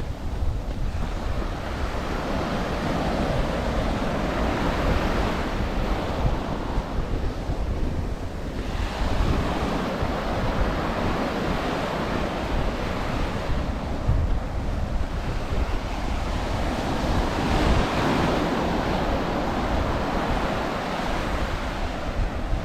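Small ocean waves breaking and washing up a sandy beach, swelling and fading every few seconds, with a steady low rumble of wind on the microphone.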